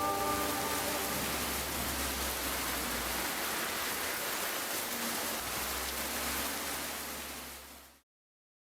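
Steady rain, an even hiss of falling water, under the last held notes of the song dying away in the first second. It fades a little and cuts off abruptly near the end.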